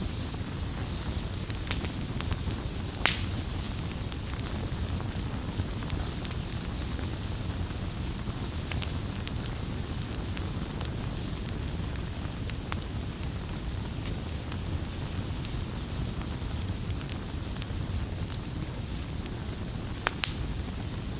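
Wood campfire burning, a steady low rumble of flames with sharp pops and snaps scattered through, the loudest twice near the start and once near the end.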